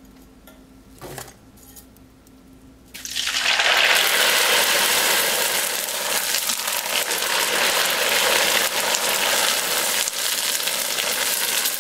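Dried glass (bean thread) noodles frying in hot oil in a wok, a loud steady sizzle that starts suddenly about three seconds in as the bundle goes into the oil and puffs up.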